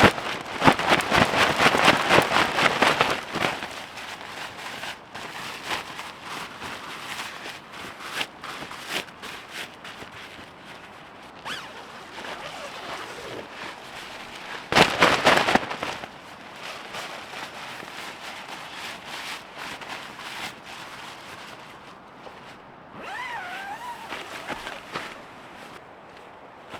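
Camping gear being handled: a burst of dense, rapid clicking and rustling for about three seconds, then quieter rustling, a second short burst about fifteen seconds in, and a brief wavering high-pitched call near the end.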